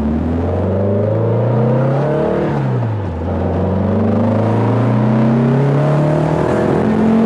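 Air-cooled VW flat-four, bored and stroked to 2332cc, pulling hard under acceleration, heard from inside the Beetle's cabin. Engine pitch climbs, drops about two and a half seconds in as it shifts up a gear, then climbs again.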